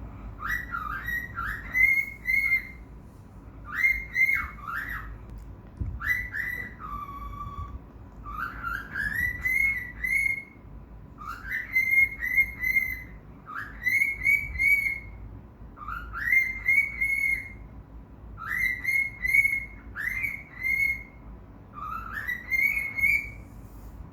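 Cockatiel whistling its song: a repeated phrase of short, rising whistled notes, sung again roughly every two seconds.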